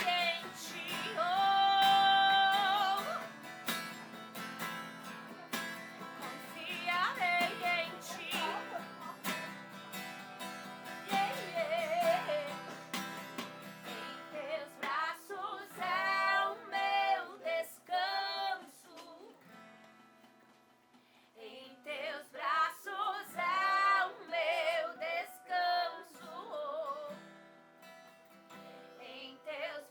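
A woman singing a worship song to a strummed acoustic guitar, with vibrato on long held notes. The music dips briefly about twenty seconds in, then the singing and strumming pick up again.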